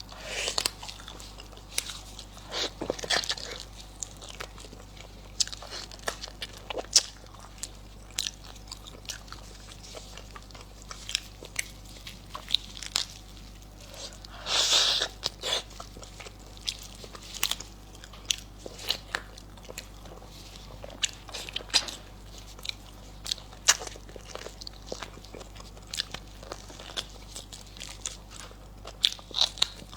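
Close-miked mouth sounds of a person biting and chewing braised lamb trotters, gnawing the skin and tendon: irregular wet smacks and clicks, with a louder burst about halfway through.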